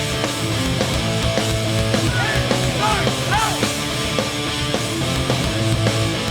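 Hardcore punk band playing live at full volume: distorted electric guitars, bass and drums running steadily through an instrumental stretch of the song.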